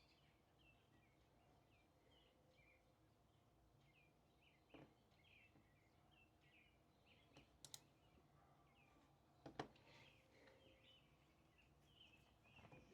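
Faint, continual chirping of small birds, many short calls one after another, with three sharp clicks about five, eight and ten seconds in.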